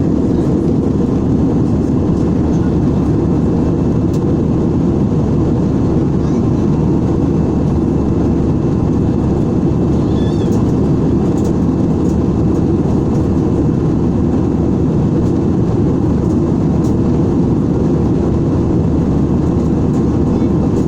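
Airliner cabin noise heard from inside the passenger cabin: a steady, deep rush of engine and air noise that does not change.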